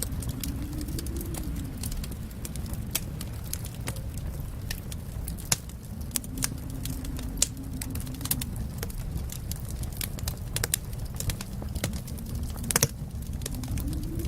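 Wood fire in a fireplace crackling, with irregular sharp pops and snaps over a steady low rumble of the burning. One louder pop comes near the end.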